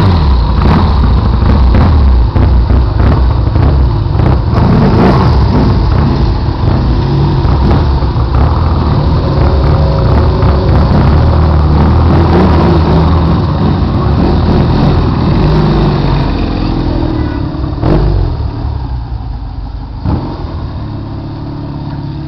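Vintage Triumph parallel-twin motorcycle engines running loud close by, revving as the bikes pull away; the engine sound fades over the last few seconds, with two sharp knocks near the end.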